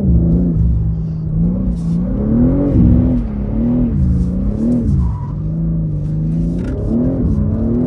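BMW six-cylinder engine heard from inside the cabin, its revs rising and falling again and again as the throttle is worked in drift mode. The cabin engine sound is partly artificial, not 100% natural.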